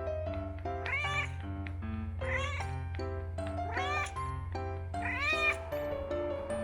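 Siamese-mix cat meowing four times, each call rising then falling in pitch, about a second and a half apart: demand meows asking for her rump to be patted. Background music with held notes plays underneath.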